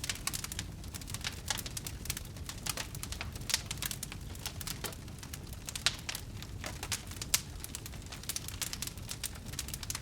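Wood fire crackling, with dense irregular snaps and a few louder pops over a low, steady rumble.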